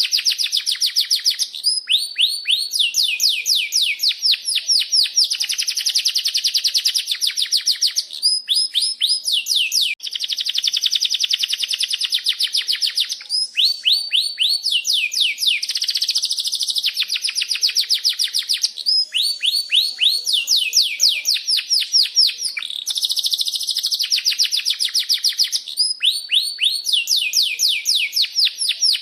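Domestic canary singing continuously: rapid trills of quick, repeated high chirps rolling on phrase after phrase, with only brief breaks between phrases.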